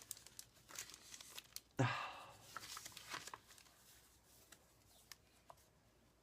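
Paper rustling and crinkling with small clicks as the pages and paper pieces of a handmade journal are handled, one louder rustle about two seconds in, then only faint scattered ticks.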